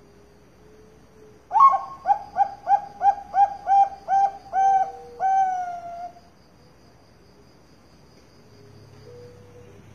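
Bangkok-line zebra dove (perkutut) cooing: a quick run of short, evenly spaced coos starting about a second and a half in, ending in a longer drawn-out final note a few seconds later. A faint, steady, high pulsing trill runs behind it.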